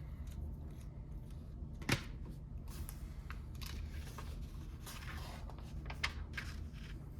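Lego bricks being handled and snapped together: a sharp click about two seconds in, another near six seconds, with light rustling of plastic pieces between and a steady low hum underneath.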